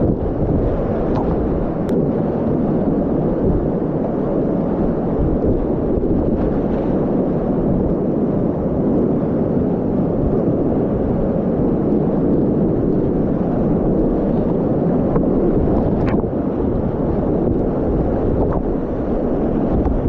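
Loud, steady rush of continuous whitewater rapids, with a few brief knocks.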